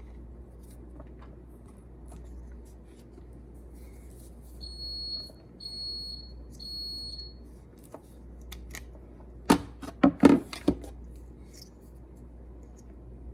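Three short high electronic beeps about a second apart, followed a couple of seconds later by a brief clatter of sharp clicks and knocks from something being handled, over a steady low hum.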